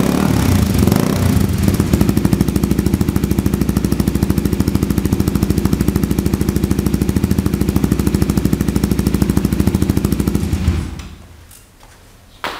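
Kawasaki Z250SL's single-cylinder engine idling through a Coffman exhaust tip with its baffle fitted, an even rapid thumping pulse. The engine is shut off about eleven seconds in.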